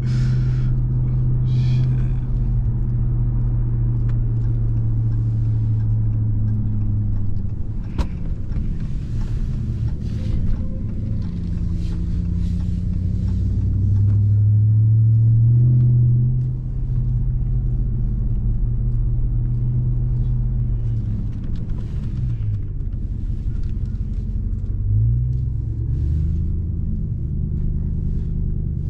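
Supercharged 6.2-litre V8 of a 2021 Ram 1500 TRX pickup running under way: a low steady engine note. It swells and rises slightly in pitch about halfway, then drops off suddenly, and rises in pitch again near the end as the truck accelerates before easing off.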